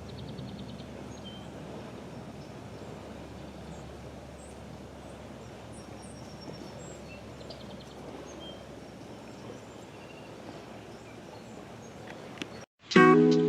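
Steady outdoor background noise with faint, scattered bird chirps and a couple of short trills. Near the end the sound cuts out for a moment and loud strummed acoustic guitar music starts.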